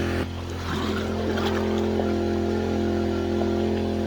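Small gasoline engine of a gold dredge running steadily at an even speed.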